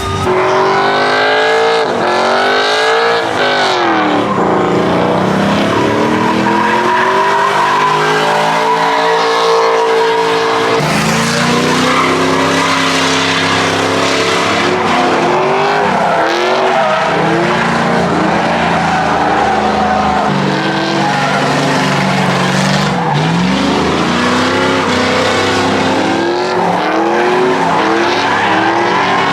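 A truck doing a burnout: the engine revs hard, its pitch swinging up and down again and again, over a steady screech of spinning tyres.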